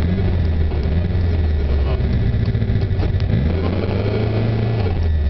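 Opel Ascona B's engine running hard during rally driving, heard from inside the cabin. The engine note drops and climbs again a few times as the revs change.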